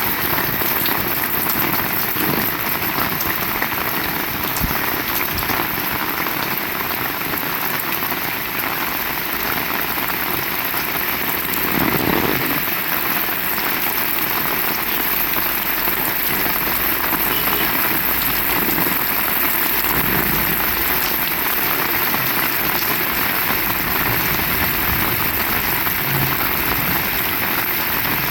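Heavy rain falling steadily, a dense even hiss, with a brief low swell about twelve seconds in.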